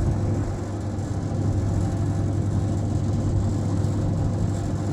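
An engine running steadily at an even speed, a low, unchanging hum.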